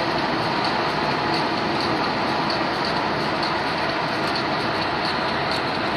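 Car driving at speed, heard from inside the cabin: a steady rush of road, tyre and wind noise.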